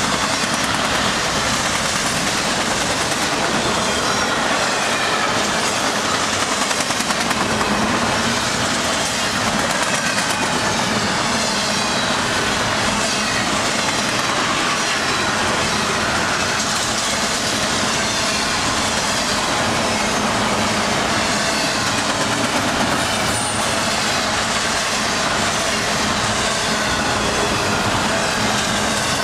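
Double-stack container cars of a freight train passing close at speed: a steady, loud rolling noise of steel wheels on rail, with a faint wavering wheel squeal above it.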